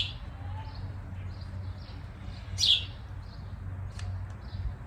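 A bird chirping: one loud, short, falling chirp about two and a half seconds in, with fainter chirps around it, over a low steady hum.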